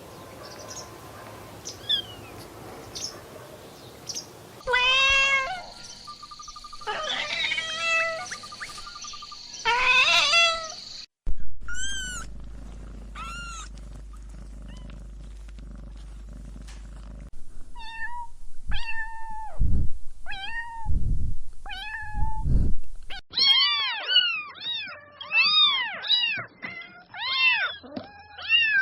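Domestic cats meowing in several short recordings cut one after another. The meows are short calls that rise and fall in pitch, with a quick run of many meows near the end.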